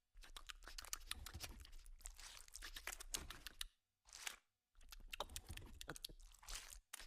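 Fried chicken skin being torn off and chewed: quiet, irregular crackling and crunching, with two brief pauses a little past the middle.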